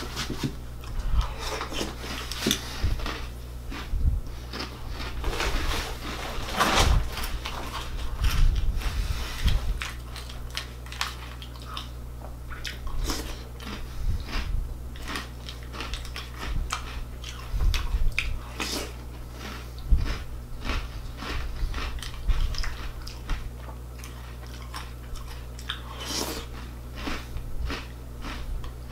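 Close-up chewing and crunching of Reese's Puffs cereal: a rapid, irregular run of crisp crunches as mouthfuls are bitten and chewed, over a low steady hum.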